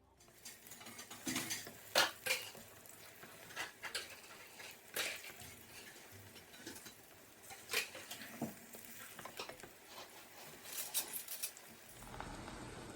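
Kitchen utensils and dishes clinking and knocking at irregular intervals, as metal vessels and spoons are handled during cooking. A steady rushing sound joins near the end and cuts off suddenly.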